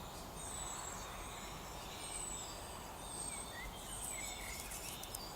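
Woodland birdsong: small birds repeating thin, high, slightly falling whistles about every second or two, with short chirps in between, over a steady background hiss.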